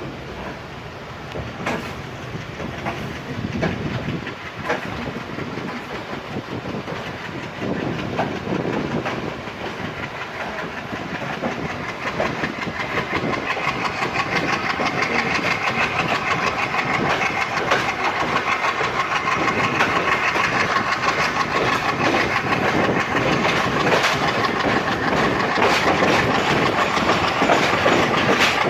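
Express train running on the rails, the wheels clacking over rail joints, growing steadily louder as it gathers speed.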